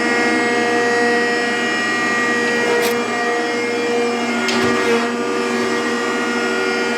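Rockford 36-inch hydraulic planer running, its motor and hydraulic drive giving a steady whine of several tones at once. A couple of light clicks come through it partway through.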